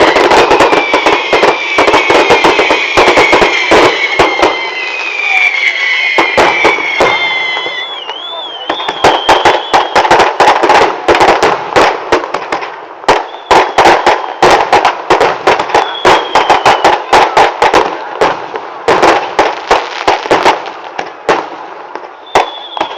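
Fireworks and firecrackers going off in rapid, dense strings of loud bangs. Several falling whistles from whistling fireworks sound over the first eight seconds, and steady higher whistle tones come later.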